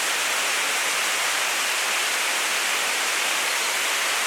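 Steady rushing noise of running water, even in level and without breaks.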